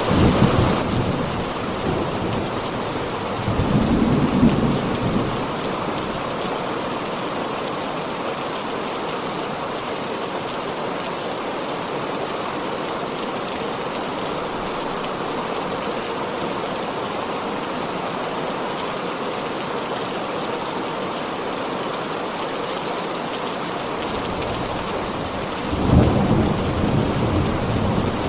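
Heavy rain falling in a steady hiss, with low thunder rumbling in at the start, again about four seconds in, and once more near the end.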